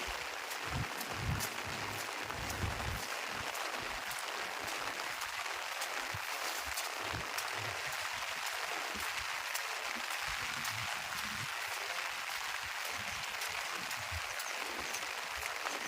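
Steady rain falling, an even hiss with many small sharp drop ticks.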